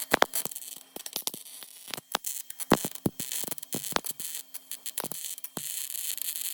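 Welding on a car's underside panel: the arc crackles and spits in quick irregular bursts over a steady hiss, with a short stop about two seconds in, filling a gap in a rust-repair patch. The crackling cuts off near the end.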